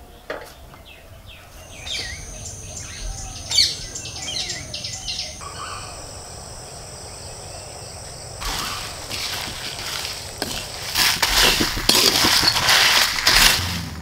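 Small birds chirping in short downward-sliding calls over a steady high-pitched hum. From about eight seconds in, a louder scratchy, rustling noise takes over.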